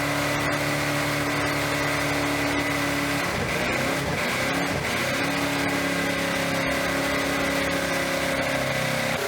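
Ford 351 V8 running hard with its throttle held open, a steady engine drone whose pitch wavers for about two seconds in the middle before steadying. The engine is being run to destruction, with its oil drained, shortly before it seizes.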